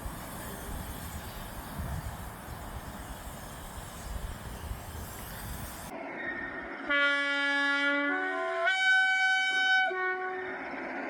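A railway locomotive's horn sounding several notes in turn for about three seconds: a low note, then higher ones, then a lower one again. Before it comes a steady low rumble and hiss.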